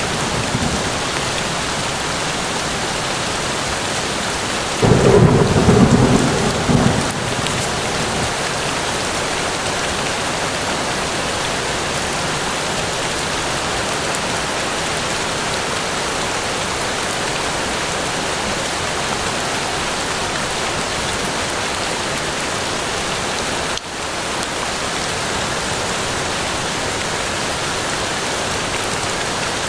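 Steady rain falling on forest foliage, an even hiss, with a low rumble of thunder about five seconds in that lasts a couple of seconds.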